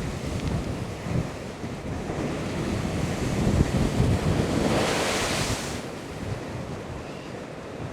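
Storm waves breaking against a sea wall at high tide, with wind buffeting the microphone. A bigger wave surges and washes in, loudest about five seconds in, then eases.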